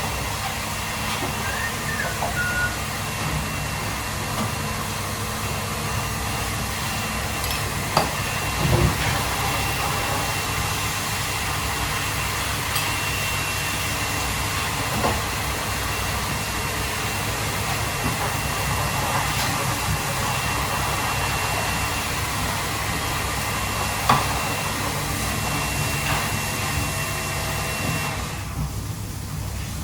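Steady machine-like kitchen noise with a thin, high whine and a low hum, broken by a few knocks and clatters. Near the end the whine stops and the hiss drops away.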